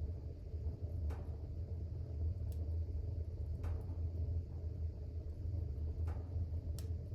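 Fire burning in a fireplace: a steady low rumble of the flames with a few sharp crackles every second or two.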